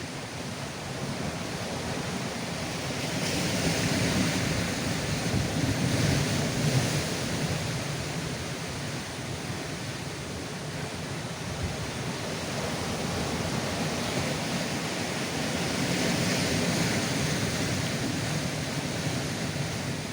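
Rough sea surf washing over coastal rocks: a continuous rush of water that swells louder twice, about a third of the way in and again near the end.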